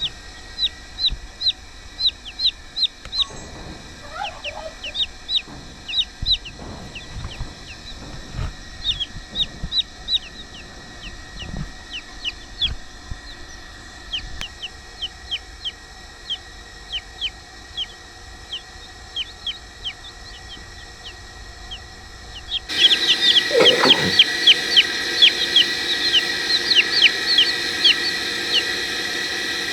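Chicks peeping continuously, a rapid run of short, high cheeps several times a second. About two-thirds of the way in they suddenly become much louder.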